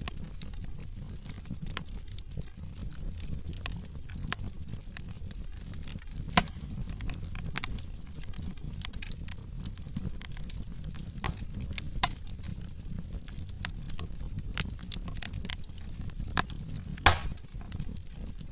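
Log fire burning in a fireplace, crackling with many small irregular snaps over a low steady rumble, and two louder pops, about six seconds in and near the end.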